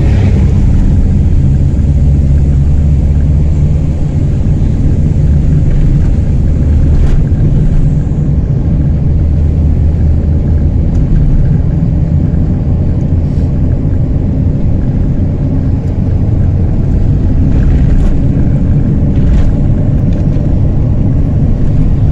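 Chevrolet Celta's four-cylinder engine running through a straight pipe with no muffler while driving: a loud, steady drone whose pitch shifts a little as the revs change.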